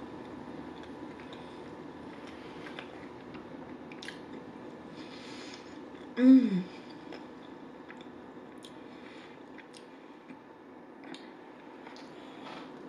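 Close-miked chewing and small wet mouth sounds of a person eating baked ziti, with scattered small clicks. About six seconds in comes one brief hum that rises and falls in pitch.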